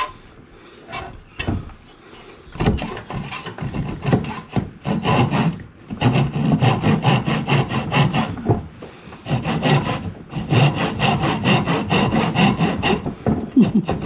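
Hand saw cutting through wood: a few slow, separate strokes at first, then fast, steady back-and-forth strokes from about six seconds in.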